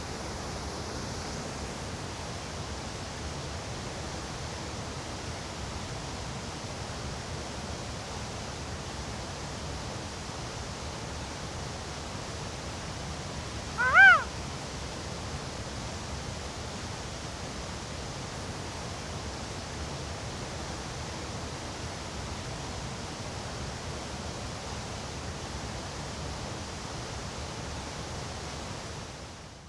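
Steady rushing background noise with no speech. Halfway through comes a single short animal call that rises and falls in pitch.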